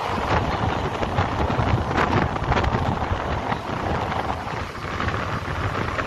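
Wind rushing over the microphone at an open door of a moving passenger train, over the train's steady running rumble on the rails, with a few short clacks about two seconds in.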